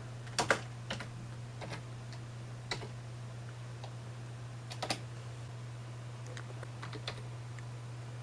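Scattered sharp clicks from working a computer's mouse and keyboard, including a quick double click about half a second in and another near five seconds, over a steady low hum.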